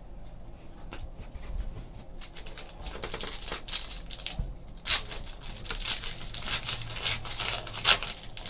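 Trading cards being handled: cards sliding and rubbing against each other, with light clicks and rustling that grow busier about two seconds in. The loudest sharp sounds come at about five and eight seconds in.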